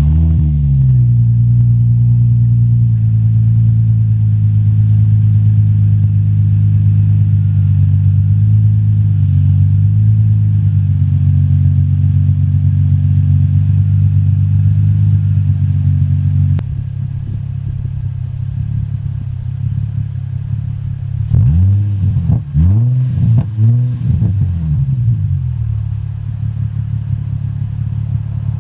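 2004 Infiniti G35's 3.5-litre V6 with the muffler deleted, just after a cold start: it runs at a fast idle whose pitch eases down, then drops suddenly to a lower idle a little past halfway. Near the end come several quick throttle blips, each rising and falling.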